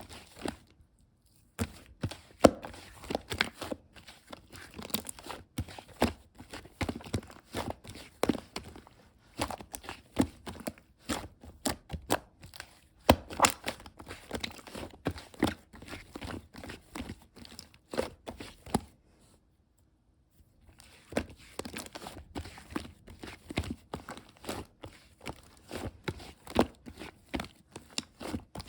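Irregular clicks, taps and rustles, as of objects being handled at close range, dropping out briefly about a second in and again for about a second and a half around two-thirds of the way through.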